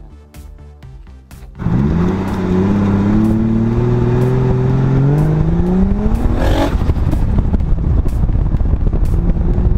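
Background music, then about one and a half seconds in the turbocharged BMW M50B25 straight-six comes in loud under full acceleration, its note climbing slowly and steadily for about five seconds. Near the middle the pitch jumps up sharply and breaks off, and the engine then runs on rough and loud, heard from a camera on the car's flank.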